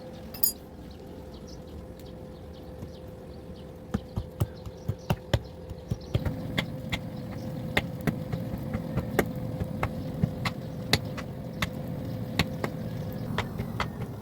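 Hammer blows on metal at a forge, starting about four seconds in and going on at roughly two strikes a second. A steady hum runs underneath, and a low rushing noise grows louder about six seconds in.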